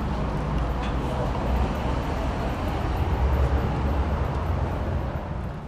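Steady rumble of a vehicle's engine and cabin noise, dropping away shortly before the end.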